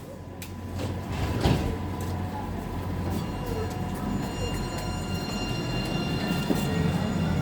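Class 180 diesel multiple unit running: a steady low drone that builds over the first second or so, with faint high steady whines joining about halfway through.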